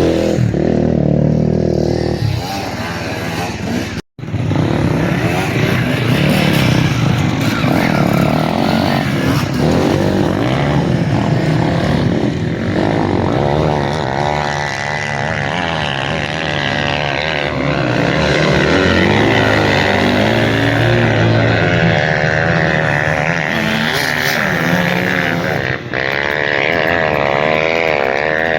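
Off-road vehicle engines revving and running under load, their pitch rising and falling repeatedly. The sound drops out for an instant about four seconds in.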